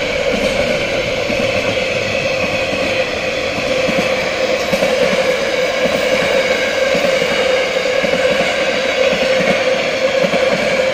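Freight train's container and flat wagons rolling past on the rails, a loud, steady rumble of wheels on track.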